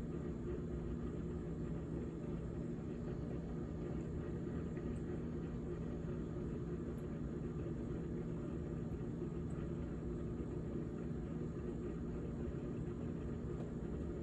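GE GTH18XCTZRBB refrigerator running with a steady hum made of several low tones.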